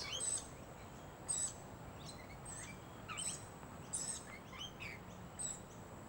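Birds chirping: a series of short, high-pitched calls about once a second, some of them falling in pitch, over a faint steady background.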